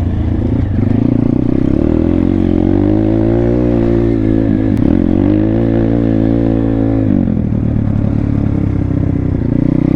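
2019 Thumpstar 140cc pit bike's single-cylinder four-stroke engine pulling under throttle, its pitch rising about a second in and wavering, then easing off to a lower, quieter run about seven seconds in.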